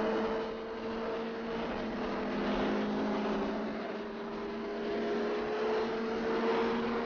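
Sport motorcycle engine running at a steady cruising speed, its pitch drifting slowly, over a rush of wind noise.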